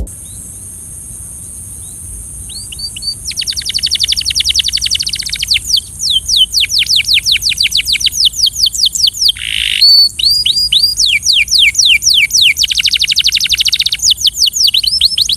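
Belgian canary singing: fast rolling trills of quick downward-sweeping notes alternate with slower, separate notes, starting about two and a half seconds in. A steady high hiss lies under the song.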